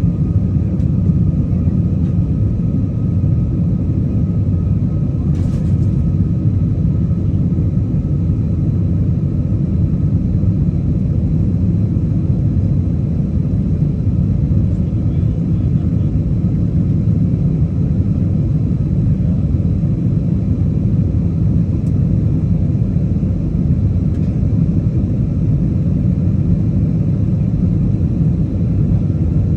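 Steady low rumble of a moving vehicle that does not let up, with a faint steady hum above it.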